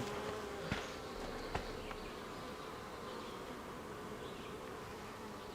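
A colony of honeybees buzzing steadily in an opened hive, a continuous hum with two faint clicks in the first two seconds.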